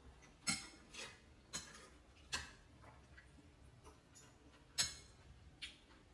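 Kitchen utensil clinking against cookware: about six sharp, irregular clinks, the loudest near the end.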